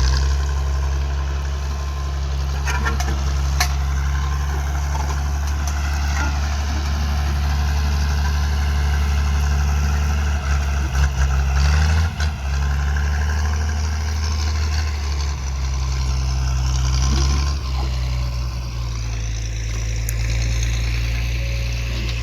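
Farm tractor's diesel engine running steadily under load, with a brief surge and dip in its note about ten to twelve seconds in, and a few sharp clicks.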